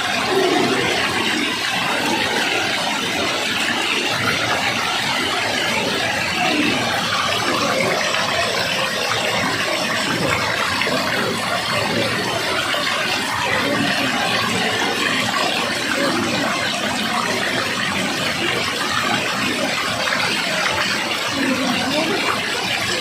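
Water rushing steadily, an even, unbroken noise that holds the same level throughout.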